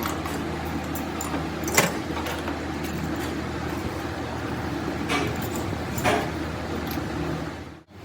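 Workshop noise: a steady low machine hum with a few sharp metal clinks, about three of them, the clearest near the start. The sound drops out abruptly just before the end.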